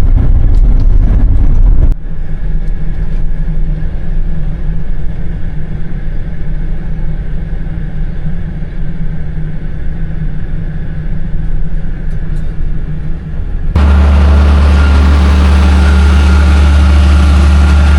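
A vehicle engine running steadily with a low hum. It drops abruptly to a quieter level about two seconds in, then jumps back to a loud, steady hum with a rushing hiss near the end.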